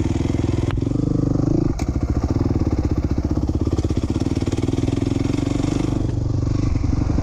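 A 2007 450R's single-cylinder engine runs at steady part throttle while being ridden, with the revs briefly rising about a second in, then dipping.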